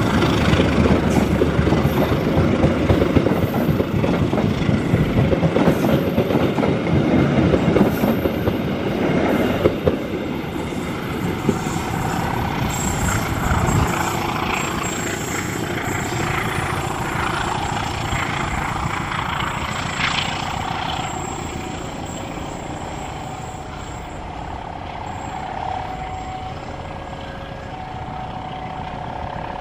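Passenger train coaches rolling past on the rails, with loud wheel-and-track rumble for about the first ten seconds, then fading steadily as the train pulls away into the distance.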